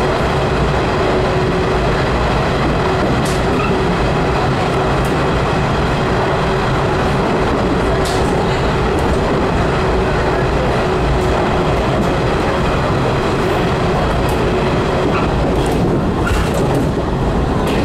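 JR Kyushu 415 series electric train running through a tunnel, heard from inside the cab: a steady, loud rumble of wheels and running gear with a faint steady hum. A few sharp clicks cut through, more of them near the end.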